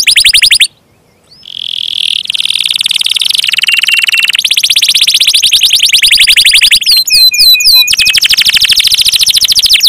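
Domestic canary singing a loud song of fast, rolling trills. It breaks off for a moment about a second in, and about seven seconds in a short phrase of quick downward-sweeping notes plays before the trills resume.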